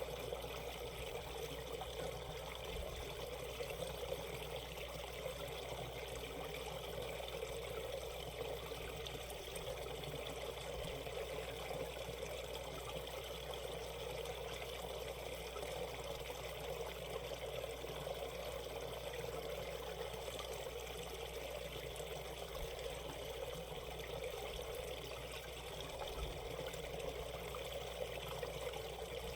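Mountain stream flowing over shallow rapids, a steady rushing and trickling of water that keeps on without a break.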